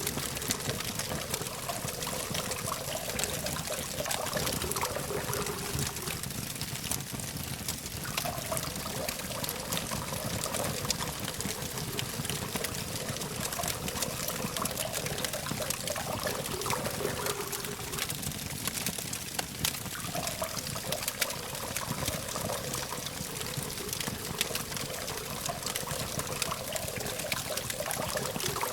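Campfire burning with a steady hiss and frequent sharp crackles and pops, over a low background hum of distant traffic.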